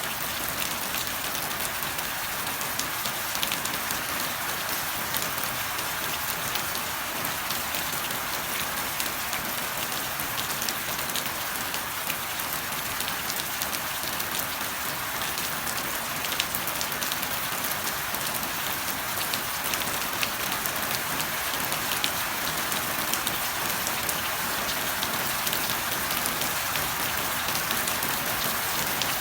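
Steady rain falling: a dense, even patter of drops with no thunder.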